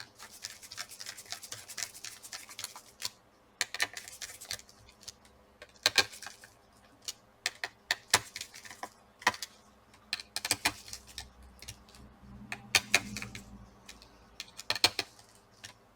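Irregular small clicks, taps and scrapes of a screwdriver and metal parts as a laptop's heatsink is fitted back and screwed down.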